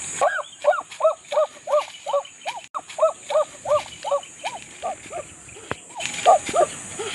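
A bird calling a fast run of short rising-and-falling notes, about three a second, pausing briefly and then calling a few more near the end. A steady high insect buzz runs underneath.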